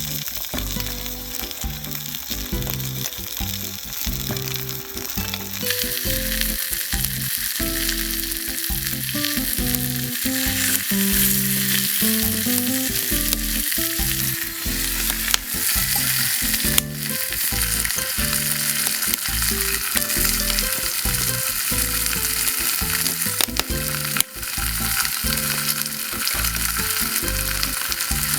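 Meat sizzling and frying in a Turk iron frying pan over a wood fire; the sizzle grows much louder about six seconds in, with a couple of sharp clicks from the pan or tongs later on. Background music with a low bass line plays underneath.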